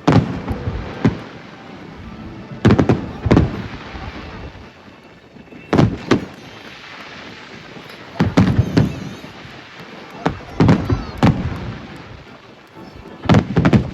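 Aerial firework shells bursting in a display: about a dozen loud booms in irregular clusters, each with a short rumbling tail.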